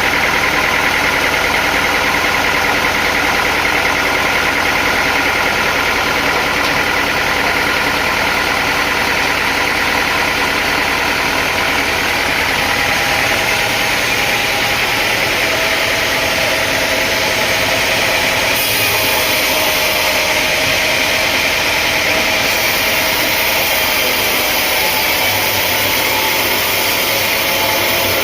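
Sawmill machinery running steadily: an engine-like hum with a high whine, no sharp strikes or cuts.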